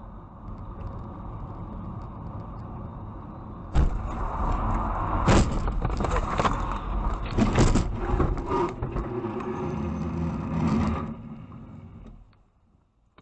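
Car driving noise, a steady low rumble, jumps suddenly to a much louder rumble about four seconds in. That louder stretch holds several sharp knocks and bangs, then fades away a second or two before the end.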